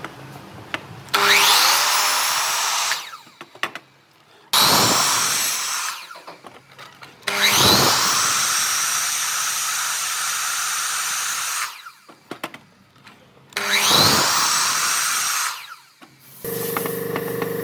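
Handheld electric power tool worked on wood in four separate runs, each starting with a rising motor whine as it spins up, then rough noise until it cuts off. Near the end a steadier machine hum with a held tone starts.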